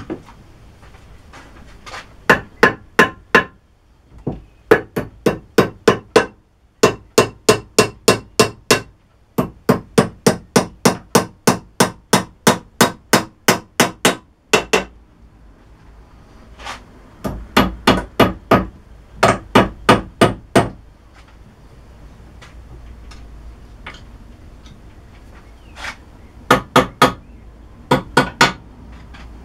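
Small hammer tapping little tapered pins home, struck in quick runs of about four blows a second, each with a short metallic ring, and pauses between the runs.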